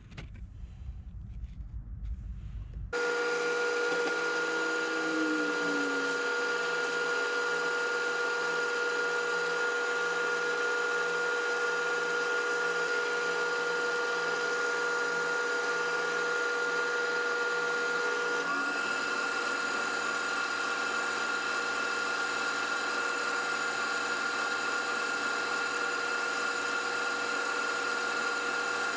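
Wood lathe running steadily with a constant motor whine, while sandpaper is held against the spinning maple bottle stopper. It starts abruptly a few seconds in, after a low rumble.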